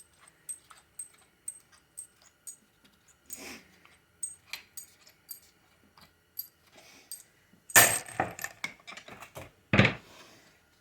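Metal parts of a 4L60E automatic transmission being handled: light scattered metallic clinks and ticks, then a quick run of louder metal clanks about eight seconds in and one heavier knock near the end.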